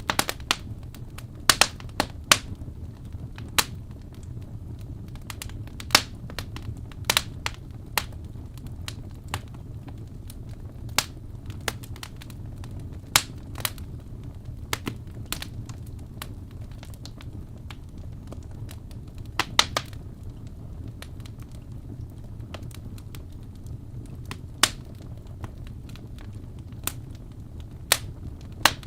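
Fire in a fireplace crackling, with irregular sharp pops, a few of them loud, over a steady low rumble.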